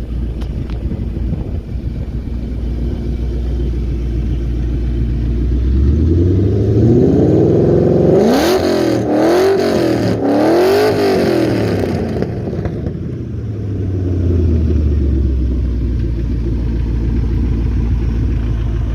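Ford GT's supercharged 5.4-litre V8 idling, then revved up from about six seconds in, blipped several times in quick succession, and dropping back to a steady idle for the last few seconds. The exhaust is loud throughout.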